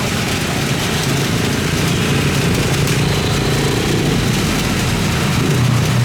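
A steady engine rumble under a constant hiss, getting a little louder toward the end.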